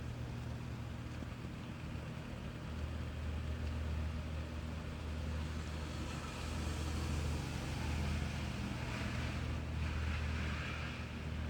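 Wet-street ambience in steady rain: a continuous low rumble of traffic under the rain's hiss, with the tyre hiss of cars on the wet road swelling twice, about six and nine seconds in.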